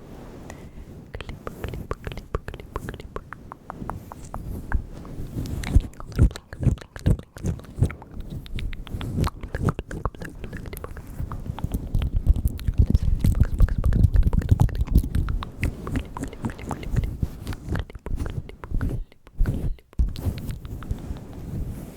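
Close-miked ASMR mouth sounds: a dense, irregular run of wet clicks and smacks, heavier and fuller around the middle.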